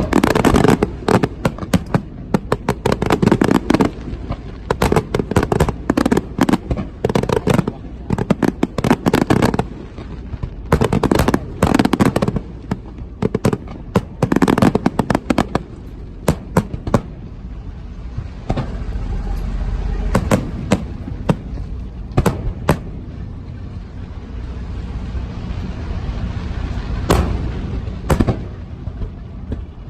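Aerial fireworks bursting: rapid clusters of sharp bangs and crackles for most of the time, thinning to a few single bangs over a steady hiss later on, with one strong bang near the end.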